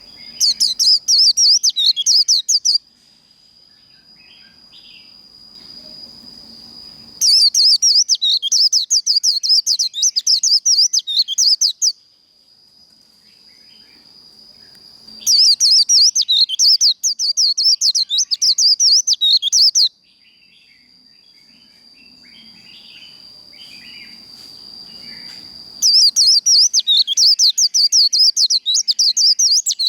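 White-eye (vành khuyên) singing its fast, chattering 'líu' song in four loud bouts of rapid warbling notes, each a few seconds long, separated by pauses. A steady high-pitched tone sounds underneath throughout.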